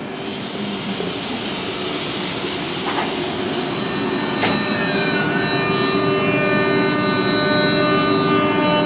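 Passenger train running and getting steadily louder, with several high steady squealing tones from the wheels and rails coming in about halfway.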